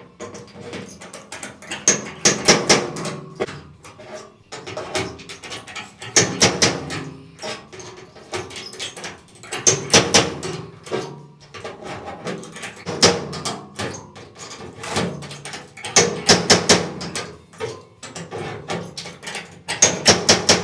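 Dent-pulling on a sheet-steel truck body panel: a slide hammer clacking on welded pull pins in quick groups of several strokes, one group about every three to four seconds, drawing a sunken area of the wheel arch back out.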